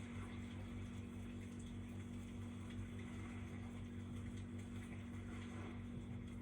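Recorded campfire crackling played from a video through a speaker: faint scattered pops and snaps over an even hiss, with a steady low hum underneath.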